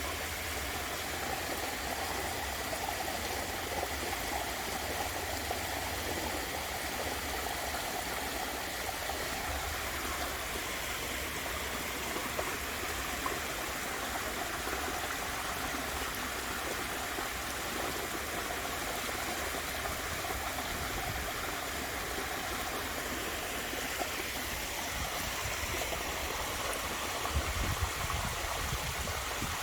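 Water from a waterfall running and splashing steadily, with a brief low rumble near the end.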